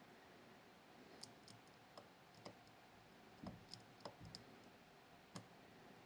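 A dozen or so faint, irregular clicks of a dimple pick working the pins inside a Miwa Kaba Star Orion (JC) dimple lock during picking.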